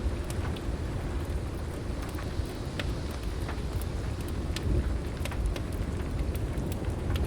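Heavy rain with a low, continuous rumble of thunder underneath. Sparse sharp crackles and pops from a wood fire are scattered through it.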